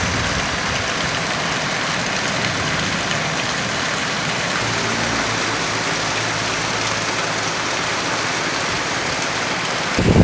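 Heavy rain pouring down in a steady hiss, with a faint low hum about halfway through.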